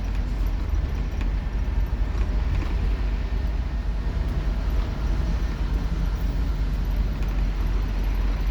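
Scania K230UB Omnilink bus's diesel engine running steadily, with a deep low drone and a haze of cabin and road noise as heard from on board.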